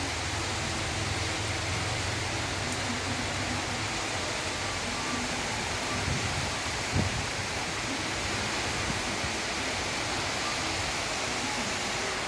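Heavy rain pouring down, a steady hiss, with one short low knock about seven seconds in.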